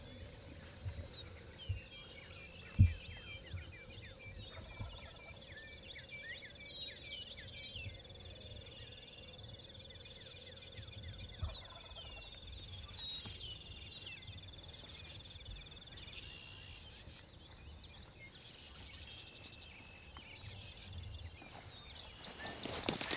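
Birds chirping and calling outdoors, with a steady high-pitched whine through the middle and a single thump about three seconds in.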